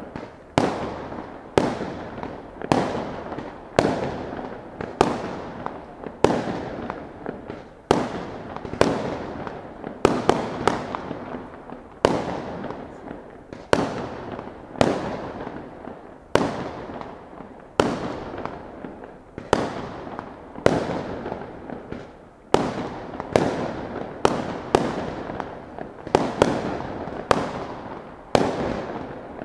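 Aerial firework shells bursting in a steady series, a sharp bang about once a second, each trailing off in echo.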